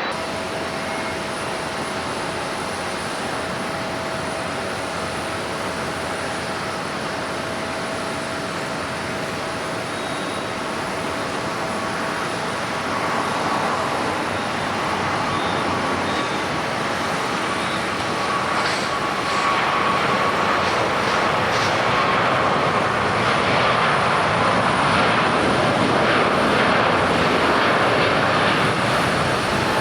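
Jet noise from a JAL Airbus A350-1000's Rolls-Royce Trent XWB turbofans on a takeoff run. The noise is steady at first and grows louder over the second half, with a faint whine held through the middle.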